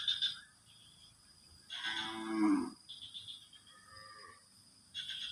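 A single low, drawn-out animal call, moo-like, about two seconds in and lasting about a second, over a steady high-pitched drone and scattered short chirps.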